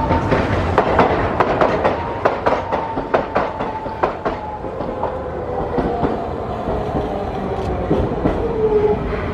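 Hiroshima Electric Railway streetcar's wheels clacking over rail joints, with many sharp clicks, densest in the first few seconds. Under them runs a whine that falls in pitch toward the end.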